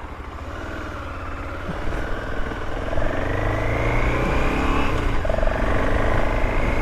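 Motorcycle engine accelerating, its pitch rising for several seconds, then dropping at a gear change about five seconds in and pulling on, with steady low rumble underneath.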